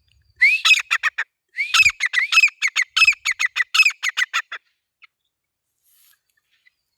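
Grey francolin (teetar) calling: two quick runs of high, repeated notes with short rising-and-falling whistles, the second run longer, ending after about four and a half seconds.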